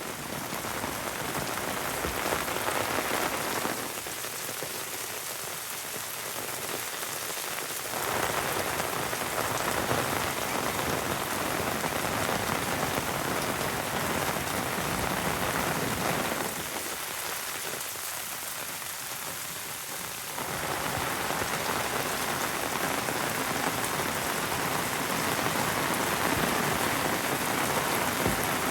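Heavy rain falling steadily as a dense hiss. Twice, about four seconds and about seventeen seconds in, it turns thinner and a little softer for some four seconds.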